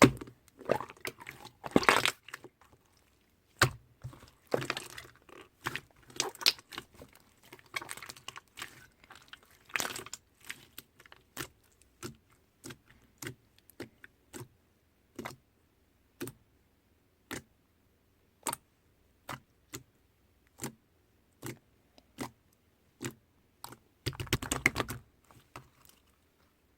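Purple pearl slime worked by hand, making sharp clicking pops. The pops come in dense runs at first, then singly every second or so, with a brief dense flurry near the end.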